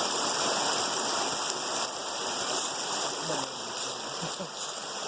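Creek water rushing steadily, with faint voices in the second half.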